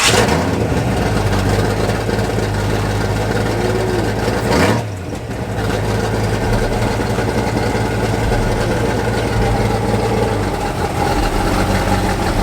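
Classic Ford Mustang's engine freshly started and idling loudly and steadily. About four and a half seconds in it is blipped once, briefly rising and falling in pitch, then it settles back to idle.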